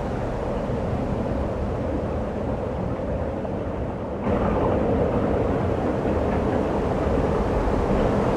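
Steady wind rumbling on the microphone, a continuous noise with no distinct events. About four seconds in it abruptly becomes a little louder and brighter.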